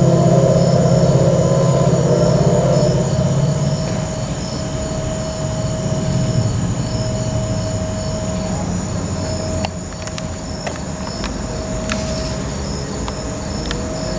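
Empty tank cars of a long ethanol freight train rolling past on the rails: a steady rumble with a thin, steady squeal over it. A low hum is strongest for the first few seconds, then the sound eases a little, and sharp clicks come in during the last few seconds.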